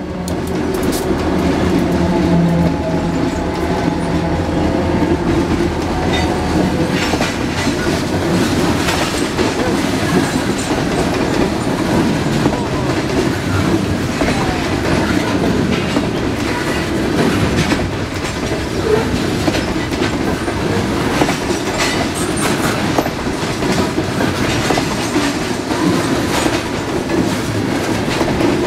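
EMD SD40-2 diesel locomotives running past for the first few seconds, with a steady engine drone. Then a string of loaded coal hopper cars rolls by, wheels clattering steadily on the rails with many quick clicks.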